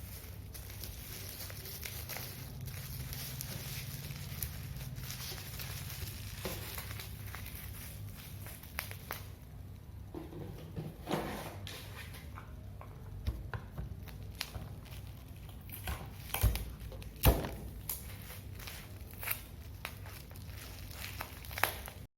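Kitchen tidying sounds: scattered light knocks, clicks and rustling of things being handled and set down, the sharpest knock about 17 seconds in, over a steady low hum. The sound cuts off suddenly at the end.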